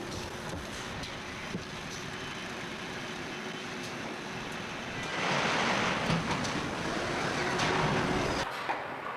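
Water heater tank production-line machinery running with a steady noise and a faint hum. About five seconds in, a louder hissing noise starts and cuts off abruptly near the end.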